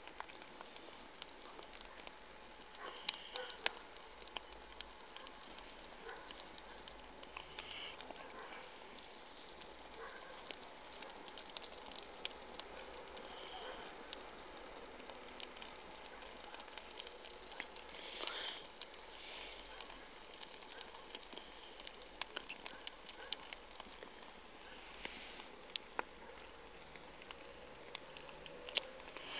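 Campfire burning, crackling with many irregular sharp pops and snaps over a soft steady hiss.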